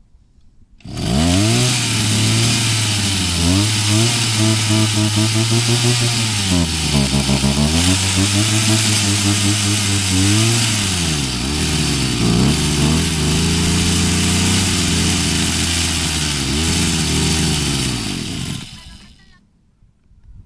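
The mini bike's rebuilt Chinese small engine running, its speed rising and falling a few times. It starts abruptly about a second in and stops shortly before the end.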